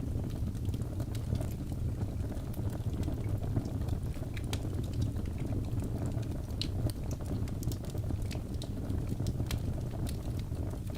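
Wood fire burning in a fireplace: a steady low rumble of flames with frequent irregular crackles and small pops from the burning logs.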